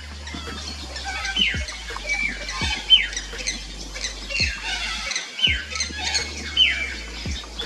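A colony of fairy martins twittering: many short calls that slide downward in pitch, repeating and overlapping.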